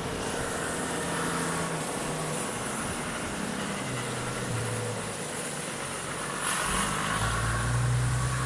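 A motor vehicle's engine running, its low note shifting in pitch and growing louder near the end.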